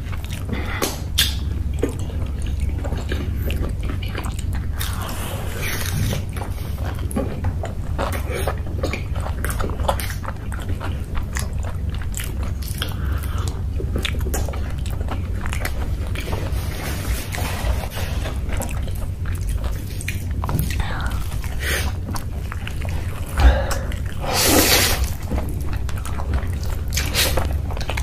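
Close-miked mukbang eating sounds: chewing, biting and wet mouth smacks over noodles and fried snacks, with a steady low hum underneath. A louder cluster of mouth noises comes near the end.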